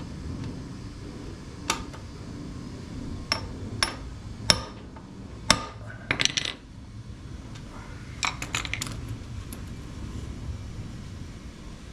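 Metal tools clinking and tapping on metal parts: a string of sharp, irregular clicks, several in quick clusters about halfway through and again later, over a steady low background hum.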